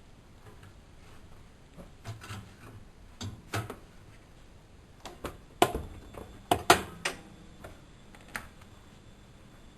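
A series of about nine short, sharp clicks and knocks at uneven intervals, the loudest ones a little past halfway.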